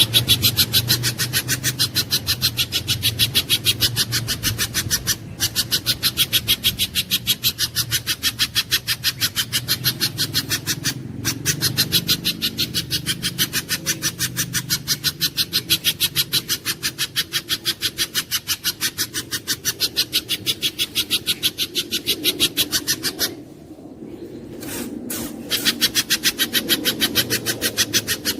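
Spiderhunter (pijantung gunung) calling: a long, fast run of sharp, high repeated notes, about six a second. The run breaks off briefly a few times and pauses for about two seconds near the end. A steady low hum runs underneath.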